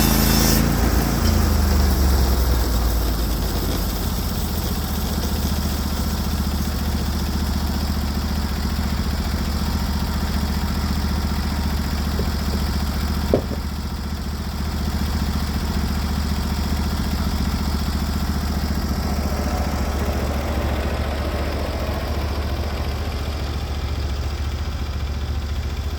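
Norwood HD36v2 bandsaw mill's gas engine dropping from cutting speed in the first two seconds, then idling steadily. A single sharp click about halfway through.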